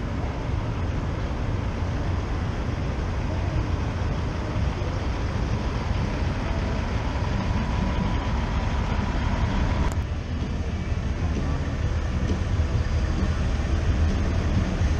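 Steady low rumble of outdoor background noise, with a short click about ten seconds in.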